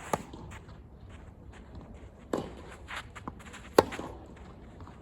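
Tennis ball struck by rackets in a rally: three sharp hits, the loudest about four seconds in, with light footsteps and shuffling on the court between them.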